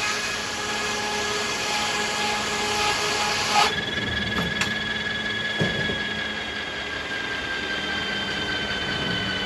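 Sawmill machinery running with a steady whine, while a saw cuts through beech wood with a bright hiss that stops abruptly about four seconds in. A couple of knocks follow, at the cut's end and about two seconds later.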